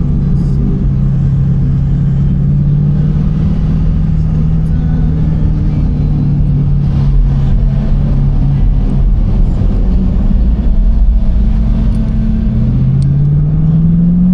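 Car engine running under load, its pitch sinking slowly, then rising again about twelve seconds in as it accelerates, over a steady low rumble.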